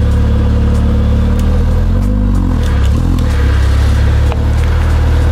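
Mercedes car engine running close by, with a couple of brief, gentle revs that rise and fall in pitch about two and three seconds in, as the car is driven against a plastic soda bottle wedged under its front tyre.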